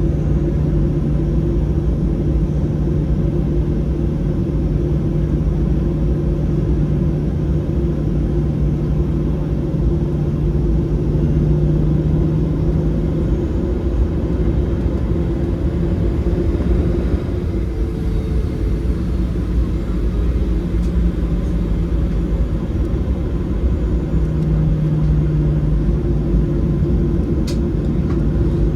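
Steady cabin drone inside a Boeing 737-700, the CFM56-7B engines and airflow making a constant low rumble with a steady hum.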